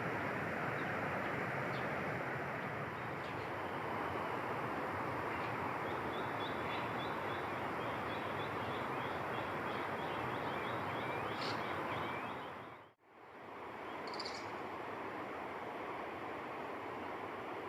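Outdoor ambience of a steady rushing noise. A faint rapid trill of short high notes runs through the middle, and a couple of short high chirps come later. The sound fades out briefly and back in about 13 seconds in.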